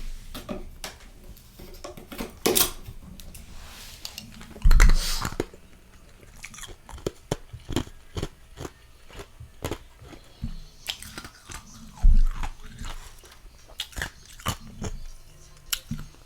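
Close-up crunching as freezer frost is bitten and chewed, a run of brittle crackles with two heavier bites about five and twelve seconds in.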